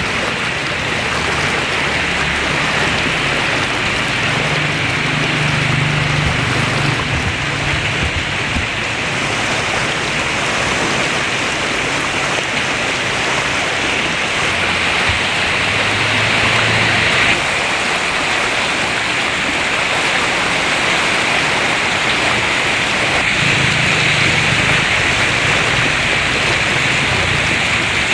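Heavy rain pouring steadily, a dense even hiss with low rumbles rising and fading a few times.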